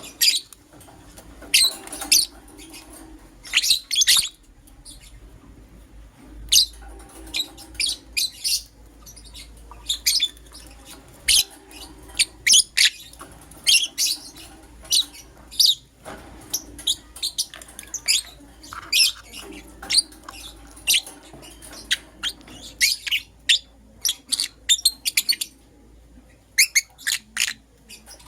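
Lovebirds, a Euwing green opaline and a lutino, chirping: short, sharp, high-pitched chirps in irregular quick clusters throughout, with brief pauses between them.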